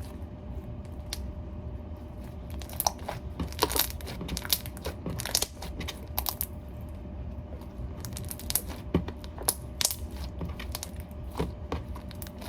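Thickening slime being stirred and worked by hand in a bowl, making irregular sticky clicks and crackles, with a low steady hum underneath.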